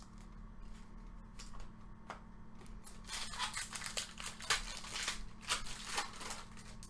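Baseball trading cards being handled and slid past one another by hand: dry scraping swishes with a few light clicks, coming thicker in the second half.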